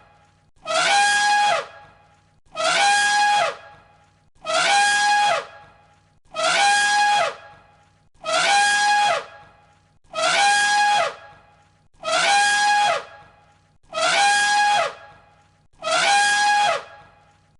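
Elephant trumpeting: the same loud, brassy call, about a second long and dropping in pitch at its end, repeated identically about every two seconds, around ten times, as a looped recording.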